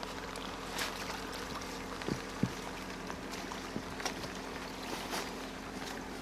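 Stream water running, with a few short, sharp splashes or knocks scattered through it, over a faint steady hum.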